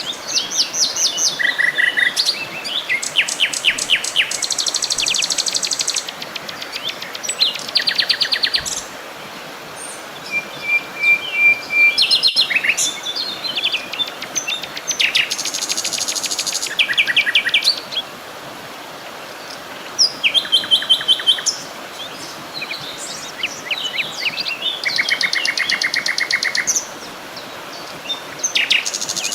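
Songbirds singing, several voices overlapping in rapid trills and runs of repeated chirps with short pauses between phrases, over a steady background hiss.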